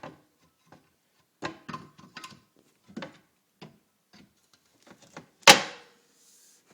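Wooden front panel of a sink cabinet being handled and fitted back into place: a series of light knocks and clicks, then one loud sharp knock about five and a half seconds in that rings briefly.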